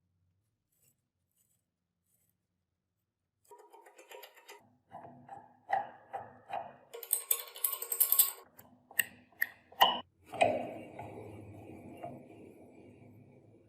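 Hard metallic clinks, knocks and rattles after a few seconds of quiet, with a dense rattling burst midway and a ringing rattle that slowly fades after a sharp knock near the end.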